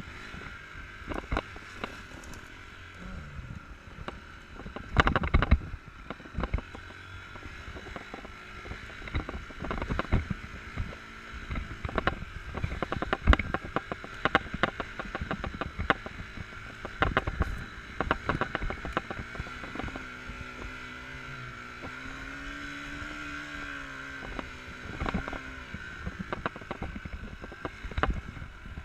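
Enduro motorcycle ridden on an off-road track, with many knocks and thumps from the bike and rider bouncing over rough ground. The engine note rises and falls between about 20 and 25 seconds in.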